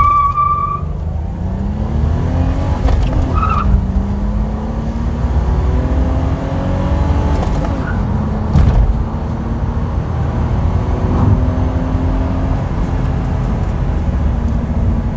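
Nissan Maxima's V6 engine under full throttle in a 0–100 km/h run with a five-speed manual gearbox, heard from inside the cabin: the engine note climbs in pitch, drops at gear changes about 4 and 8 seconds in, and climbs again. A short beep at the very start.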